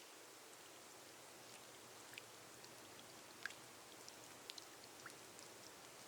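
Faint steady rain hiss with scattered single drops ticking, rain falling on a glass roof; one drop stands out a little over halfway through.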